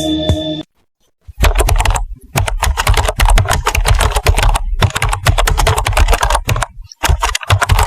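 Music cuts off, then after a brief silence comes a dense run of rapid, crackly clicks and knocks with heavy low thumps, broken by two short pauses.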